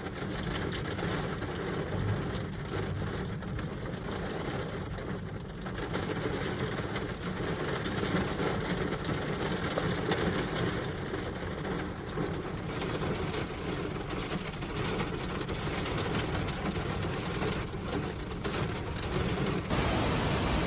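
Steady noisy rumble of rain with a vehicle engine running in it. About a second before the end it cuts to a louder, even rushing noise.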